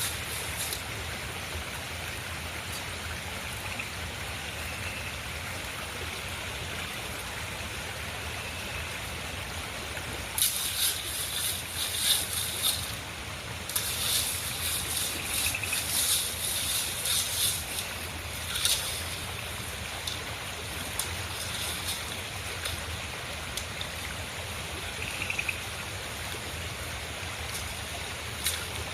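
River water flowing steadily. For several seconds in the middle, crisp, high-pitched crackling noises come and go over it.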